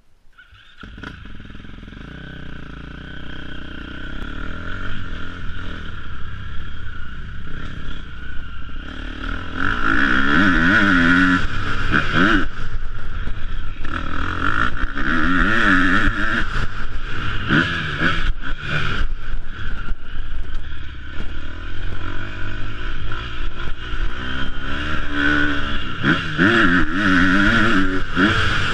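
Motocross bike engine heard up close from on board, running at low revs as it pulls away, then from about nine seconds in revving hard, the revs climbing and dropping again and again.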